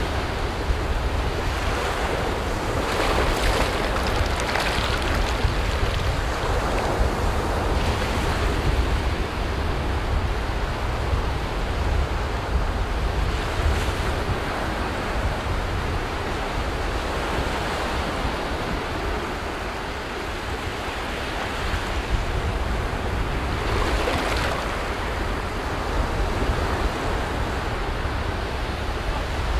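Ocean waves breaking and washing up on a beach in repeated surges, the strongest about three to five seconds in and again near twenty-four seconds. Wind rumbles on the microphone underneath.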